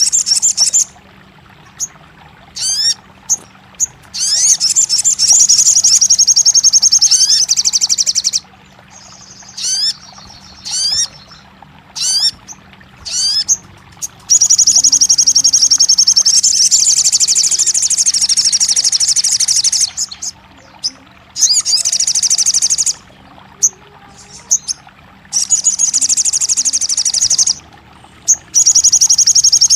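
Sogon bird song: long bursts of rapid, high trilling lasting several seconds each, broken up by short, sharp rising chirps. A faint steady low hum runs underneath.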